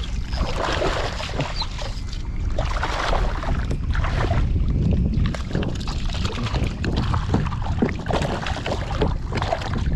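Wind buffeting the microphone with a steady low rumble, over irregular splashing of water around a kayak.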